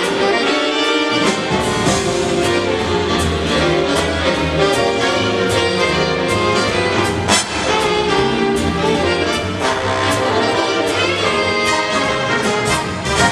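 Big band playing live: a brass section of trumpets and trombones sounding sustained chords over drums, with cymbal and drum hits throughout and one strong accent about halfway.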